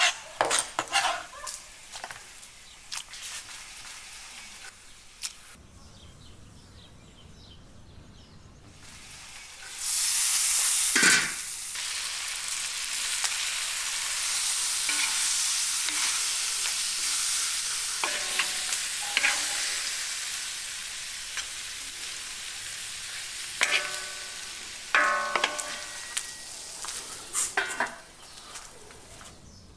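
Scattered utensil clicks, then food hitting a hot pan about ten seconds in and sizzling steadily while it is stirred, with spoon scrapes and clinks against the pan near the end.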